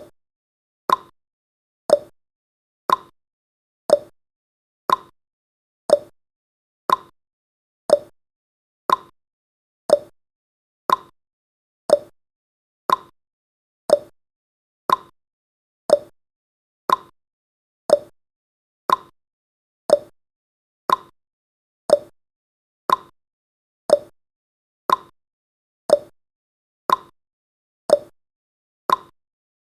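Clock-tick sound effect of a countdown timer: one sharp tick every second, alternating between a higher and a lower click like a tick-tock.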